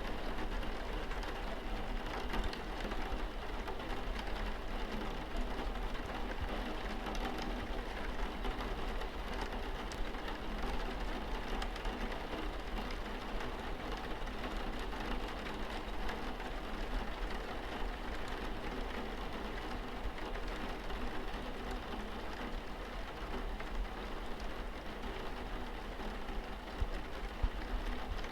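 Steady rain falling on a car's windscreen, an even patter with a constant low hum underneath.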